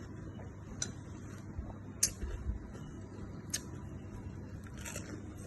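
Low room noise with a few faint, sharp clicks spaced a second or more apart, and a brief low rumble about two seconds in.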